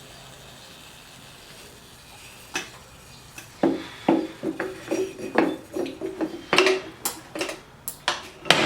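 Metal casting gear clanking: after a steady low hum, a quick run of sharp metallic knocks and taps with a short ringing tone starts about two and a half seconds in, about a dozen of them.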